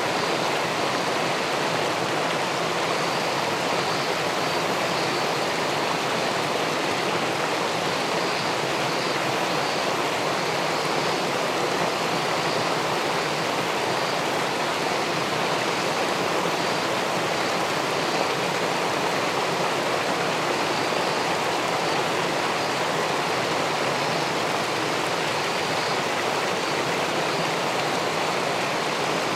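River water pouring over a small weir into the pool below: a steady, even rushing with no breaks.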